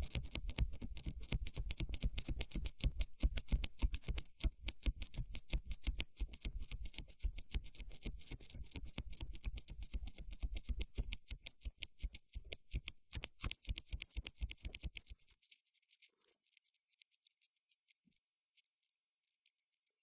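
Close-miked ASMR trigger sounds: a dense, fast crackle of tiny taps and scratches. Around fifteen seconds in it thins to a few faint, scattered clicks.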